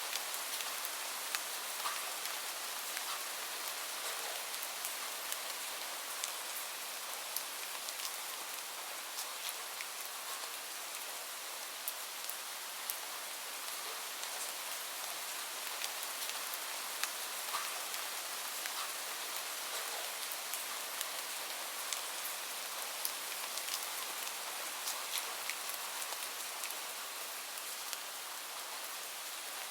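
Steady rain falling: an even hiss with many scattered, sharper individual drops ticking through it.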